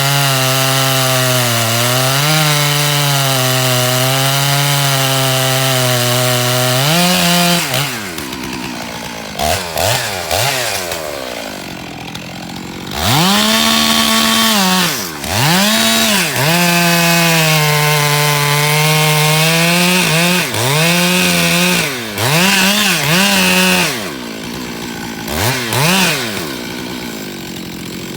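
Two-stroke chainsaw cutting Canary Island pine under load for about seven seconds, its engine pitch held steady. It then drops to idle and is revved again and again, in short blips and in longer spells of several seconds at full throttle, falling back to idle between them.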